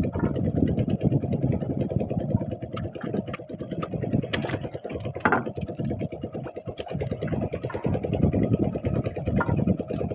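Small engine running steadily with a fast, even pulse, likely a fishing boat's motor, with a few light knocks over it.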